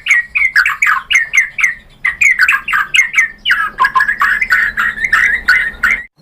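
White-rumped shama (murai batu) calling in a fast, agitated run of short, sharp, down-slurred notes, about five a second, with a brief break about two seconds in; the sound cuts off abruptly just before the end.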